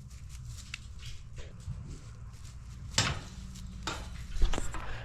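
A newborn calf and its dam shuffling in the barn pen while the calf tries to nurse: scattered soft knocks and rustles, with one sharper knock about three seconds in, over a steady low hum.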